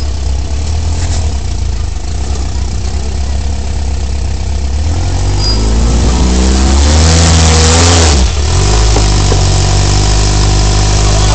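Off-road vehicle engine working through a rock crawl, running steadily at first, then revving up and down from about five seconds in, with a loud rushing noise at the peak of the revving, then settling back to a steady run.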